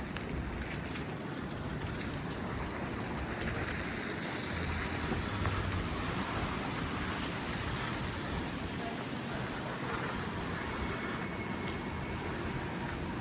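City street traffic on slushy roads: a steady wash of tyre and engine noise through wet slush, swelling a little as vehicles pass about four to six seconds in.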